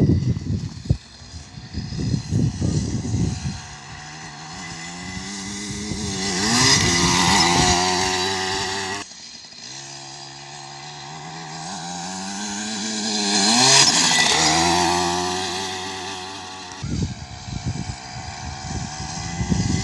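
Small motocross bike engine revving as the bike is ridden past, getting louder and rising in pitch to a peak and then falling away, twice. Wind rumble covers the microphone at the start and again near the end.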